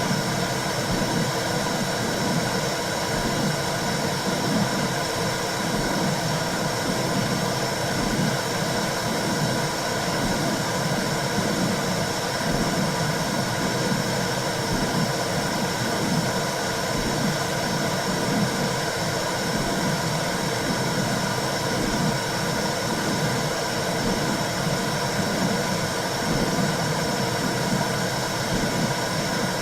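Womb sound for soothing a baby: a steady, low rushing noise with an uneven pulsing in the low end.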